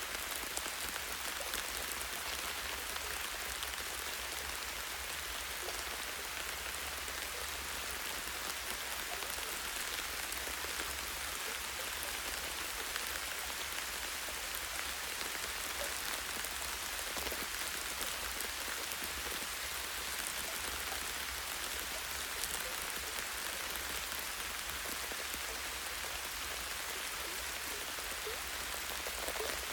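Light rain falling steadily on a tree branch and forest leaves, an even patter with scattered individual drops ticking.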